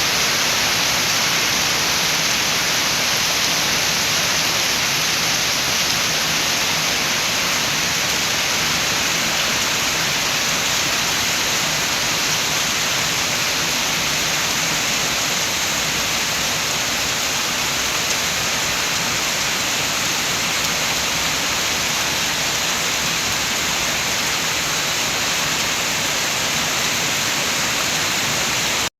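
Steady rain with wind, an even, unbroken hiss.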